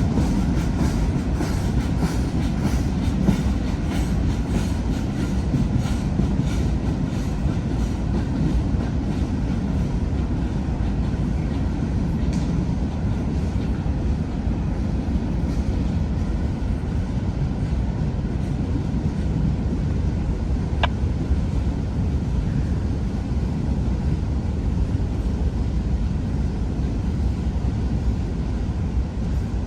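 Freight cars of a long freight train rolling past with a steady rumble, wheels clicking over the rail joints, more rapidly in the first several seconds.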